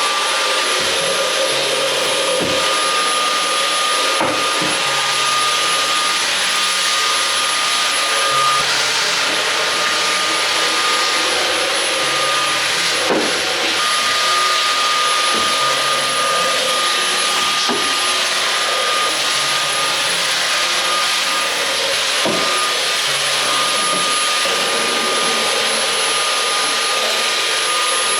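Vacuum cleaner switched on, its motor spinning up into a steady, loud whine and running evenly, with a few light knocks along the way.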